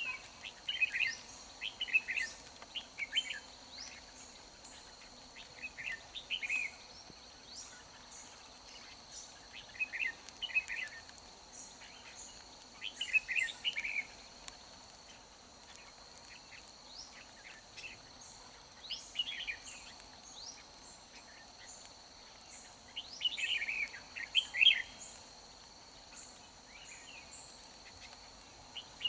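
Red-whiskered bulbul singing short, quick chattering song phrases every few seconds, over a steady high whine in the background.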